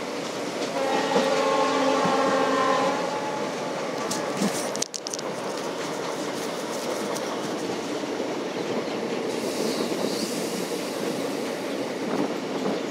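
Diesel-hauled express passenger train running at speed, with steady wheel-on-rail noise heard from an open coach doorway. About a second in, the WDG3A diesel locomotive's multi-tone horn sounds ahead for about two and a half seconds.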